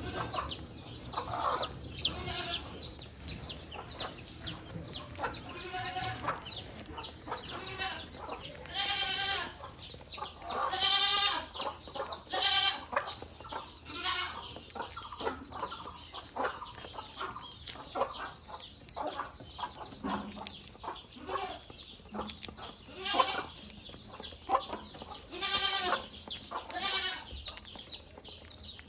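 Budgerigars chirping and chattering, a steady stream of short warbling calls one after another, with a few louder calls a little before the middle.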